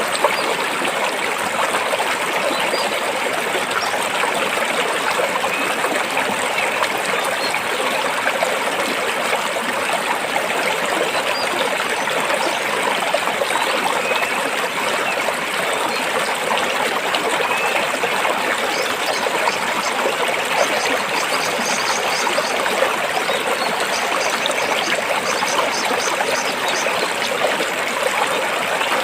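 A stream flowing over rocks: a steady, even rush of running water. Faint high chirps come in over it in the second half.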